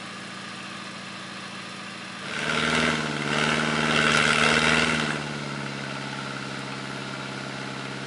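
Off-road 4x4's engine idling, then revving hard for about three seconds with a rush of noise as it pulls on the slope, then settling back to a steady fast idle.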